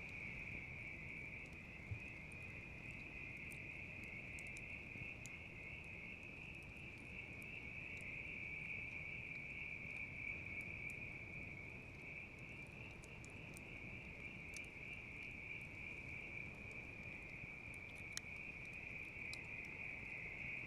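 Bell crickets (suzumushi) chirping steadily in a continuous trilling chorus, with scattered crackles and pops from a wood campfire, two of them sharper, about two seconds in and near the end.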